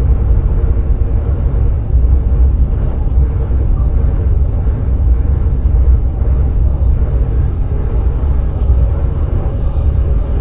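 Steady low rumble inside a sprinter train's driving cab while it runs along the line, with a faint steady tone above the rumble.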